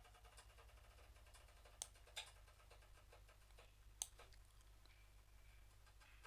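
Near silence with low room hum and a few faint, short clicks from working at a computer, the clearest about two seconds in and again about four seconds in.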